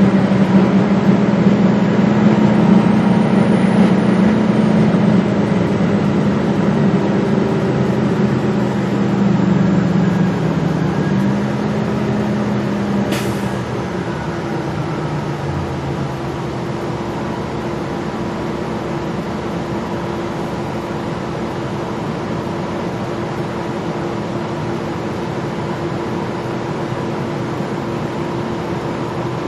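Gillig Low Floor transit bus running, its engine drone loud for the first twelve seconds or so, then easing off to a quieter, steady hum. A single short sharp sound comes about thirteen seconds in.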